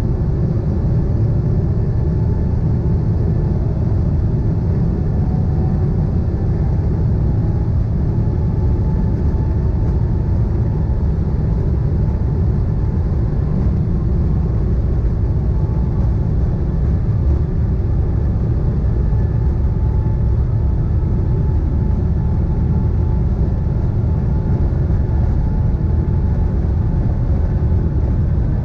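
Boeing 777-300ER airliner's GE90 turbofan engines running with a steady deep rumble. Over the first several seconds a faint whine rises slowly in pitch.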